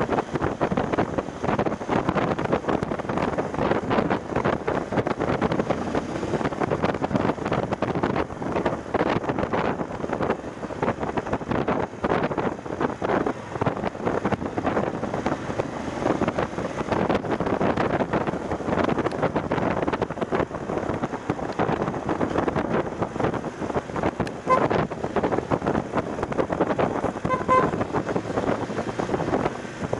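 Heavy wind buffeting on an action camera's microphone while riding a BMW F750GS motorcycle, a steady rushing roar with constant flutter. Short tones sound a couple of times near the end.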